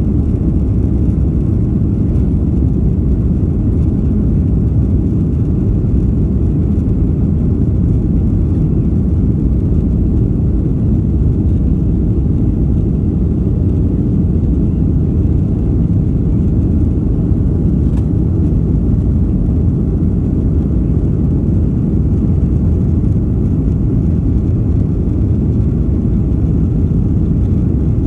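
Airliner cabin noise in flight: a steady low rumble of the jet engines and airflow, heard from a window seat.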